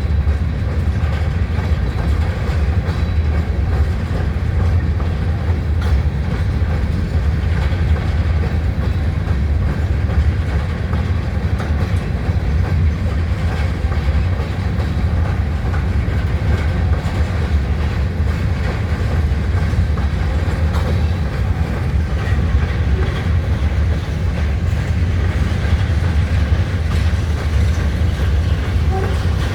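Freight cars of a Norfolk Southern rock train rolling past: a steady, loud rumble of wheels on rail.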